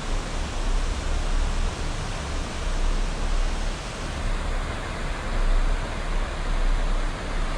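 Waterfall roaring as a steady, dense rush of water, with a strong, uneven low rumble underneath.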